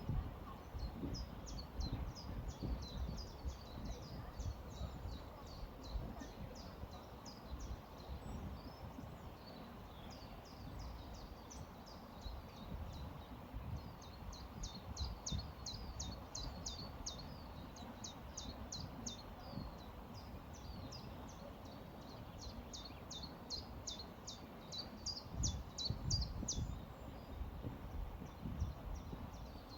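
Small birds chirping in quick runs of short, high notes, on and off throughout, over a low, steady rushing noise from the river.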